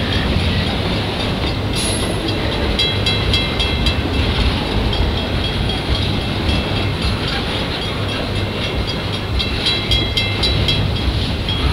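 Loaded freight flatcars rolling slowly over a level crossing: a steady heavy rumble of wheels on rail. Stretches of short high rings repeat a few times a second over it, with a brief sharp high squeal or clank about two seconds in.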